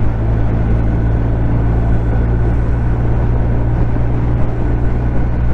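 BMW R1250R's boxer twin engine running at a steady, unchanging pitch while the bike cruises at a constant speed. The engine is heard from inside the rider's helmet, mixed with steady wind and road noise.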